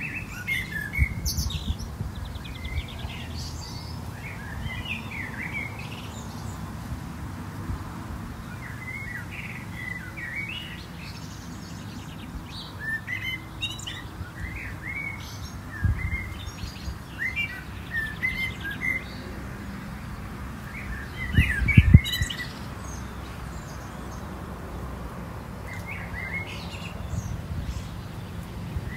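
Small birds chirping and twittering in short scattered bursts over a low rumble, with a few low thumps, the loudest about three quarters of the way through.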